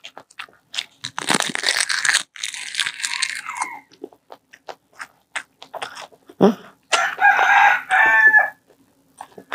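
Crunching and chewing of a crispy dried seaweed snack close to a clip-on microphone, a dense run of crackles and sharp clicks. About two-thirds through, the girl makes a short voiced sound with her mouth full.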